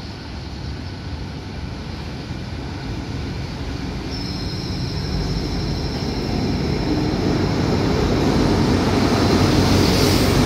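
Diesel-hauled passenger train pulling into a station platform, its engine and wheel rumble growing louder as it comes alongside. About four seconds in, a steady high-pitched squeal sets in as it brakes to stop.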